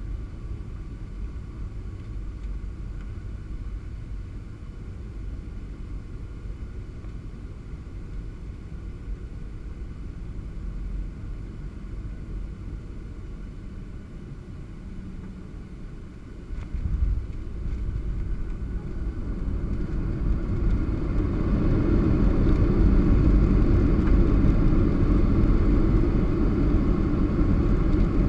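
Cabin noise of a Boeing 737-700 on landing: a steady rumble of its CFM56 engines and airflow. About 17 seconds in a sudden jolt sounds as the wheels touch down, and from about 20 seconds in a louder, rising rumble builds as reverse thrust and braking take hold.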